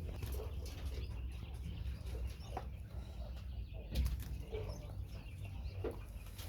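Caged quail moving about and calling in short, faint notes, with scattered clicks and one louder knock about four seconds in, over a steady low rumble.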